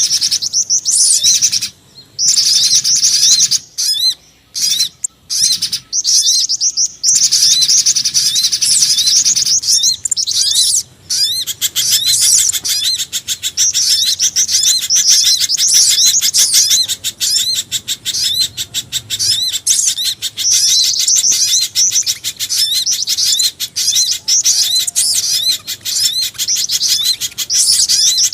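Bird-lure recording of small birds calling: a mix of pijantung gunung (spiderhunter), sogon and jingjing batu calls, high thin chirps repeated rapidly. In the first part the phrases are broken by short pauses; about twelve seconds in they merge into a dense, continuous chatter.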